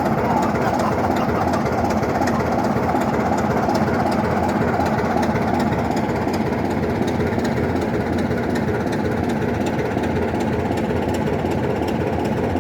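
BR Class 27 diesel locomotive's Sulzer six-cylinder engine working steadily as it hauls the train away from Keighley, a loud continuous throb.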